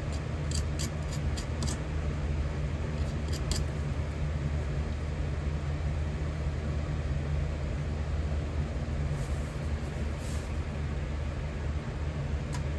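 Steady low rumble of a running metal-melting furnace, with a few sharp light clicks in the first few seconds.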